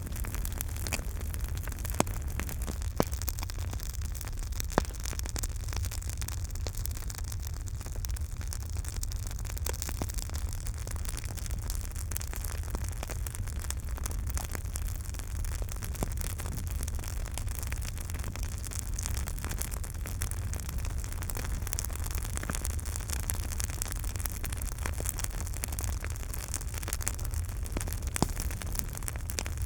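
Campfire burning, with a continuous crackle of small snaps and pops over a low steady rumble; a few sharper pops stand out in the first five seconds and once near the end.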